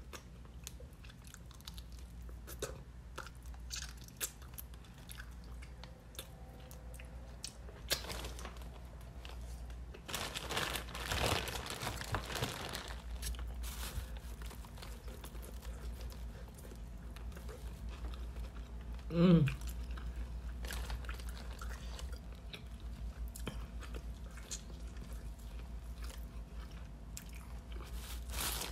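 A person chewing and biting into seafood boil, crab legs among it, close to the microphone, with scattered small crunches and clicks. A short hummed "mmm" about 19 seconds in.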